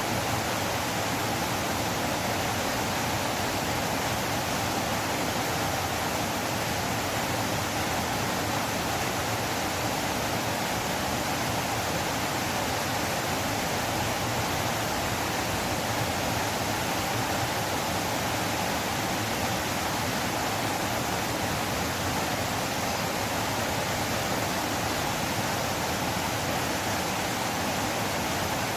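River water flowing: a steady, unbroken rushing.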